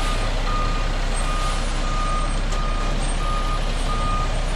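A concrete mixer truck's backup alarm beeping steadily, about three beeps every two seconds, over the truck's diesel engine running, as it reverses.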